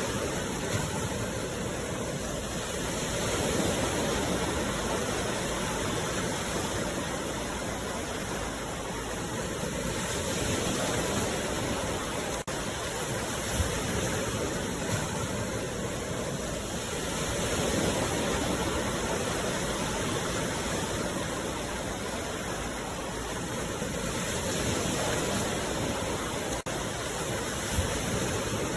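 Sea waves washing ashore: a steady rush of surf that swells and eases about every seven seconds.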